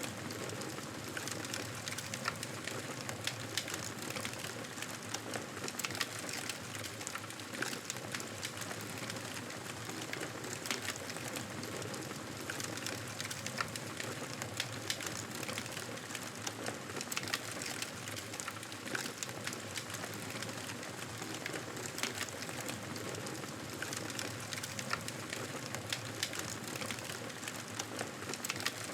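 Wood fire crackling steadily, a continuous hiss dotted with frequent irregular sharp pops and snaps.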